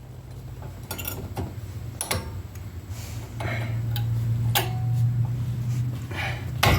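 Brake pads being seated in the caliper bracket against the rotor: a handful of separate sharp metal clicks and clinks, some ringing briefly. A low steady hum underneath grows louder about three seconds in.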